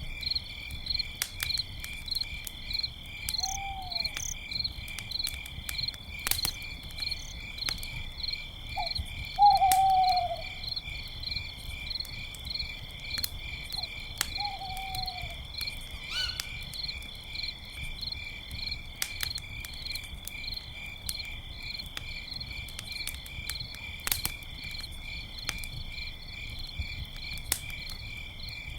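Crickets chirping steadily and continuously, with scattered sharp pops of a crackling campfire. An owl hoots three times, a short falling hoot each time, the loudest about ten seconds in.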